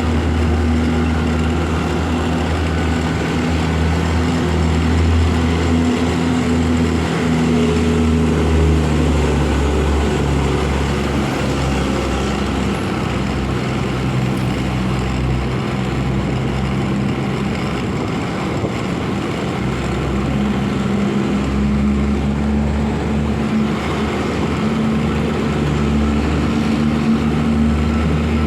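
Motorcycle engine running while riding, its low hum dropping in pitch about a third of the way in and rising again later as the engine speed changes, over a steady hiss of wind and road noise.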